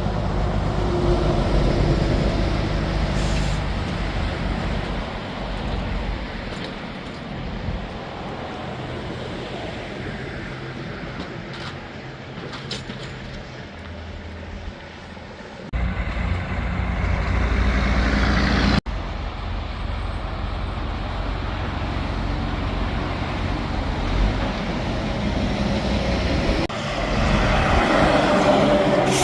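Heavy diesel semi-trucks running and driving past with a deep engine rumble, in several short clips joined by abrupt cuts; one truck's sound builds up loudly over a few seconds about halfway through.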